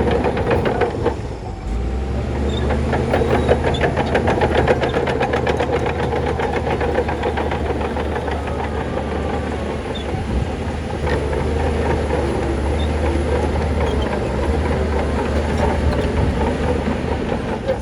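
Heavy diesel earthmoving machinery running steadily with a low drone, and a fast metallic rattling clatter through roughly the first half.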